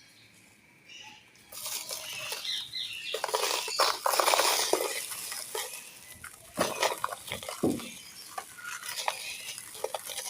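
Dry black-sand clay pot pieces crumbling and crunching under the fingers, a dense gritty crackle with grains pattering down. It starts after a brief quiet stretch, is loudest about four seconds in, then thins to scattered crisp snaps.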